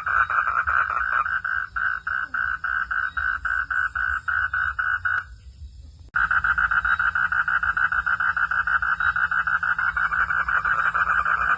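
Frogs calling at night in a rapid, even pulsing trill, about six pulses a second, over a low steady rumble. The calling drops out for about a second just past the middle, then starts again abruptly.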